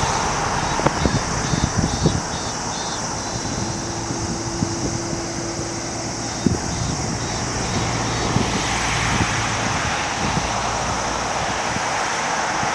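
Wind buffeting the microphone in irregular thumps over a steady distant rumble of the departing Boeing 777-200ER's jet engines, with a low steady hum for a few seconds near the middle.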